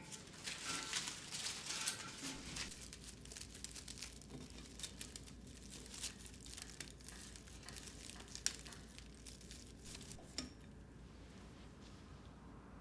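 Household objects being handled: soft rustling and crinkling, busiest in the first couple of seconds, with scattered light clicks and clinks and one sharper click a little past the middle.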